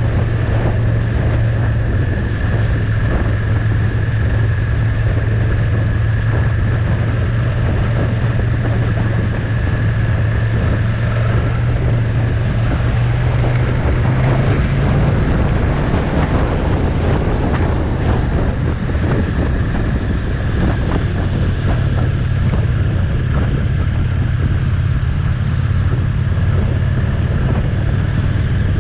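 Motorcycle engine running at a steady road speed, with wind noise buffeting the microphone. The engine note changes about halfway through, then holds steady again.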